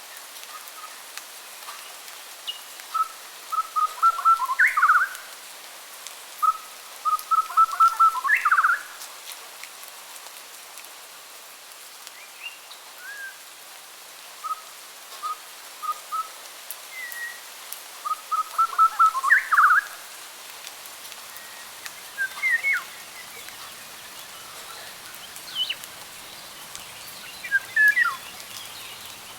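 Songbird singing: a phrase of quick repeated notes that ends in a rising flourish, given three times, with scattered short chirps between, over a steady hiss.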